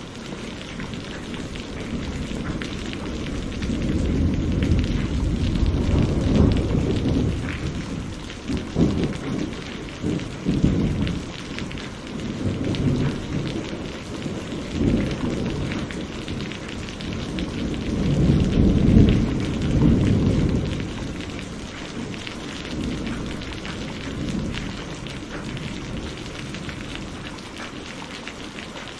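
Steady rain falling, with rolling thunder that swells and rumbles for several seconds early on and again, loudest, about two-thirds of the way through, then dies away to rain alone near the end.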